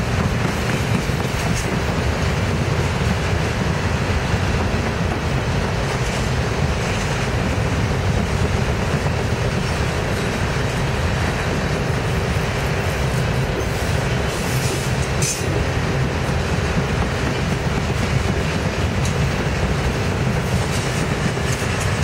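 Norfolk Southern freight train cars rolling past at close range: a steady, loud rumble with wheels clattering over the rail joints. A few brief sharp high clicks come from the wheels about two-thirds of the way through.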